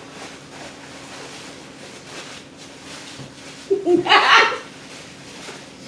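A woman's short, loud burst of laughter about four seconds in, against a low background.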